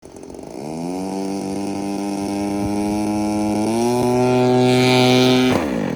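Small two-stroke gas engine of a model airplane running up: its pitch rises over the first second, steps up again a little past halfway, then cuts off abruptly near the end.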